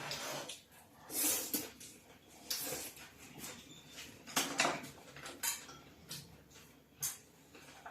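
Chopsticks and bowls clinking and scraping at the dinner table, a string of irregular light clinks.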